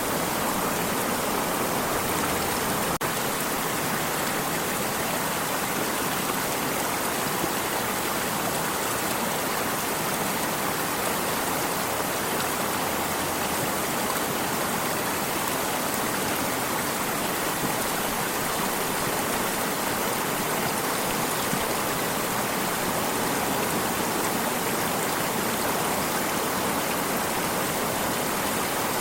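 Water stream flowing steadily, an even rushing wash of running water.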